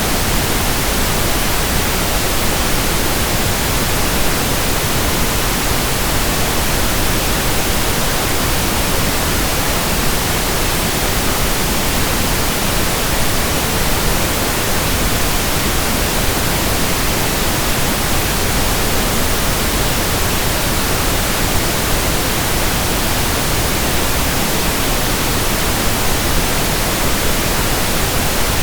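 Synthetic pink noise: a steady, even hiss spread across all pitches, unchanging throughout.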